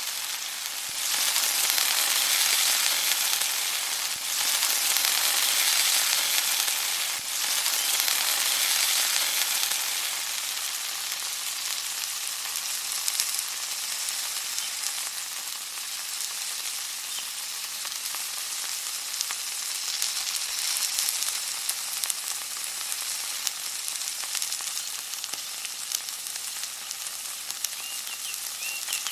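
Food frying in hot oil in a pan, a dense sizzle with fine crackling. It dips briefly three times in the first seven seconds, then settles a little quieter and steadier.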